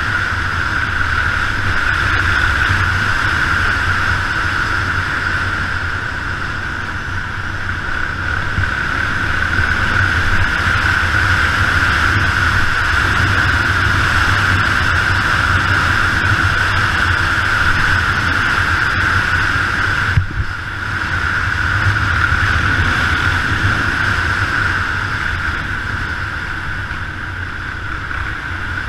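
Yamaha XT 600 single-cylinder four-stroke engine running as the motorcycle rides along, its level swelling and easing gently, over a steady rush of wind and road noise. The sound briefly drops out about twenty seconds in.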